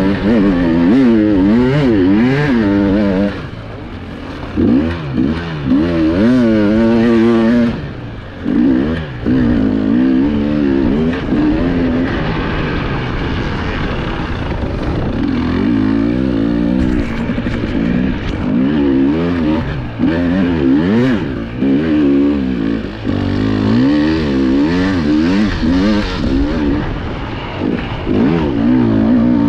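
Enduro motorcycle engine heard from on the bike, revving up and down over and over as the throttle is opened and closed while riding hard. It briefly drops back around three to four seconds in and again near eight seconds.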